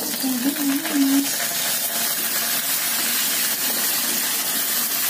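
Fresh, wet water spinach tipped into a hot wok of oil and fried spices, setting off a steady sizzling hiss.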